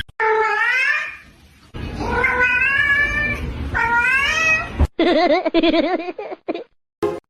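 A cat yowling: three long, drawn-out meows that bend in pitch. About five seconds in, after a cut, a lower wavering call follows.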